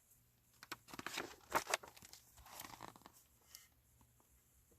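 Paper rustling as the page of a picture book is turned and handled: a few seconds of soft crinkling and brushing.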